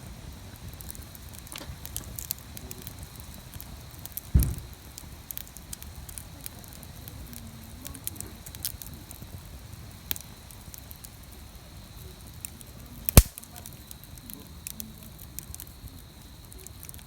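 Wood fire burning in a fire grill, crackling with scattered small pops over a low steady rumble. A dull thud comes about four seconds in, and one sharp, loud pop about two-thirds of the way through.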